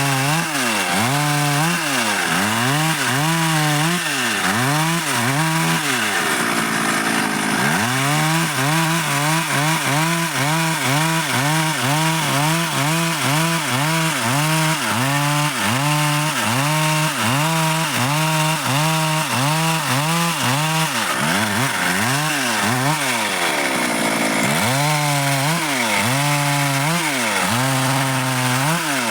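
Stihl MS 382 two-stroke chainsaw cutting dry wood, its engine pitch rising and falling about three times every two seconds as the chain bites and frees. Twice the rhythm breaks off for a moment and the engine climbs back up in pitch.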